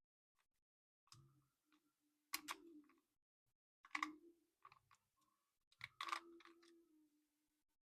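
Faint handling sounds of a plastic RC toy and its packaging: four or so sharp clicks and knocks spread out over several seconds, a few with a short ring after them.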